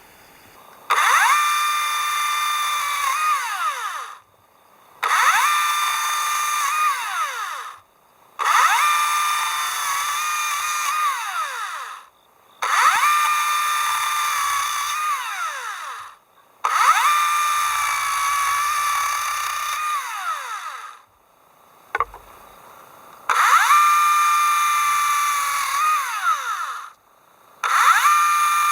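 Hand-held electric power tool, most like a drill, run in repeated bursts of about three to four seconds: each time the motor whine comes up sharply, holds a steady pitch, then winds down when released, about seven times, with a single sharp click in one of the gaps.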